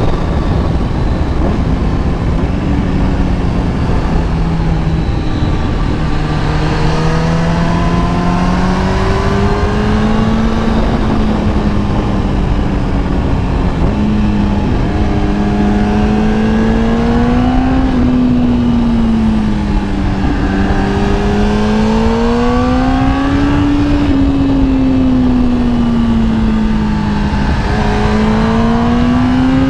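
Kawasaki ZX10R's inline-four engine under way, its note rising and falling in slow swells as the throttle is rolled on and off, over a steady rush of wind noise.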